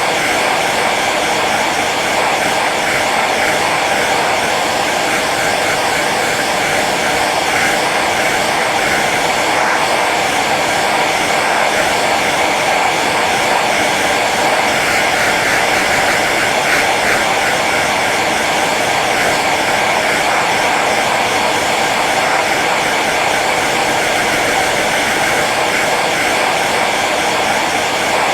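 Hair dryer running steadily on its low setting: an even whooshing blow of air with a motor hum underneath.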